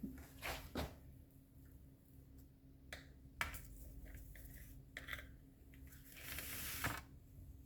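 Pet bird pecking at cake: soft scattered clicks and taps, with a few faint brief high chirps.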